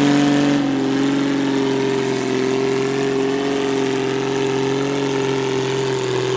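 Farm tractor engine running steadily, dipping slightly in level and pitch about half a second in, then holding an even, slightly wavering note.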